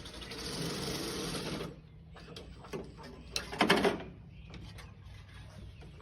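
Power shears cutting roofing with a rapid mechanical chatter: one run of about a second and a half, then a shorter, louder burst with sharp clicks about halfway through.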